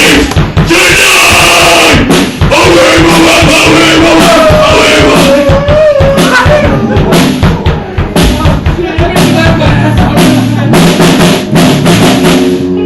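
A band playing loud at practice, with the drum kit most prominent: bass drum and snare hits under other pitched instruments.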